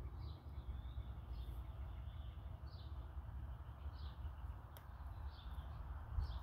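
A bird chirping faintly, short calls about every second or so, over a low steady rumble. A single faint click comes about five seconds in.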